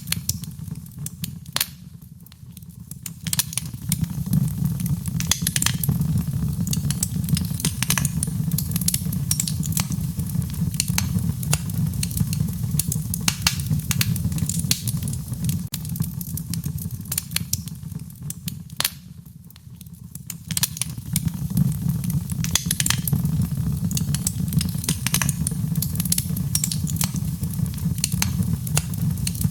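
Wood fire burning: a steady low rumble of flames under frequent sharp crackles and pops from the burning wood. The rumble drops away briefly twice, a couple of seconds in and again about two-thirds through, then comes back.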